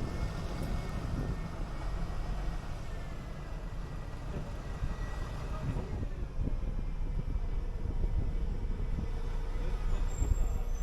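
City bus under way: steady low engine and road rumble with a faint steady whine, getting louder about six seconds in.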